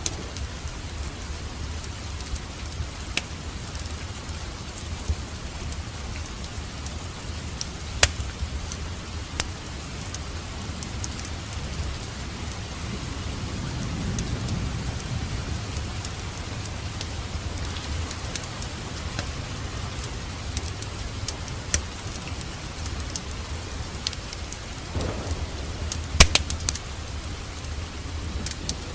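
Steady rain with a low thunder rumble swelling around the middle. Sharp crackles and pops from a fireplace are scattered throughout, the loudest about a quarter of the way in and near the end.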